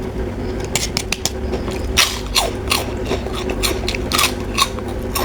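Crisp, crackling crunches of a very crunchy kerupuk-like fried cracker snack being bitten and chewed close to the microphone, in an irregular run, over a steady low hum.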